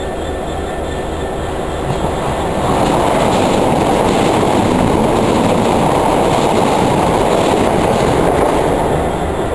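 Southern electric multiple-unit passenger train passing through the station at speed on the near track. The rush of its wheels on the rails swells about two seconds in, holds steady, then eases near the end.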